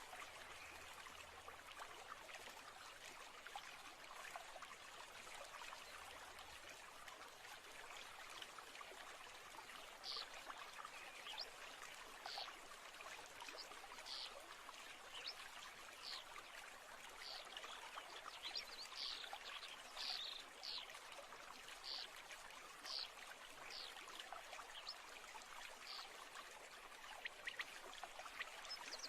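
Faint steady flowing stream, with short high bird chirps about once or twice a second starting about ten seconds in.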